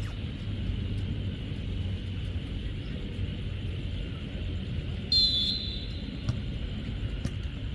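Open-air pitch ambience with a steady low rumble, and a single short referee's whistle blast about five seconds in.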